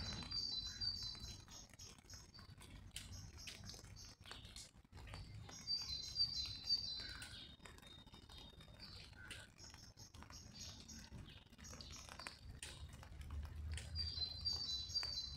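A songbird singing a short phrase of quick high notes, repeated four times a few seconds apart, over light irregular patter of raindrops tapping on an umbrella overhead.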